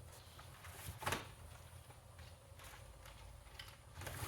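A few faint, short knocks and scuffs from someone moving about and handling things, the clearest about a second in, over a low steady hum.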